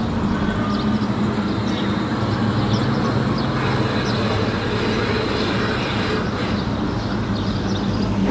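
A car engine running steadily at an unchanging low pitch.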